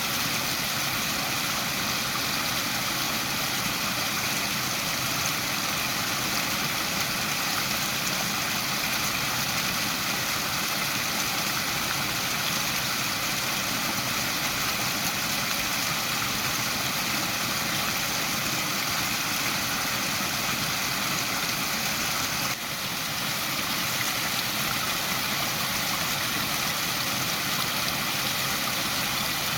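Waterfall: a steady, even rush of falling water, with one brief dip in level about three-quarters of the way through.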